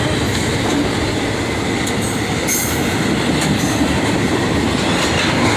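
A train passing close by: a loud, steady rumble of wheels on rail.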